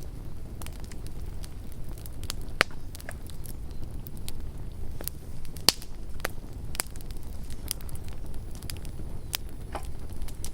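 Campfire crackling: a steady low rumble of burning wood with irregular sharp pops and snaps, two of them louder, at about two and a half and five and a half seconds in.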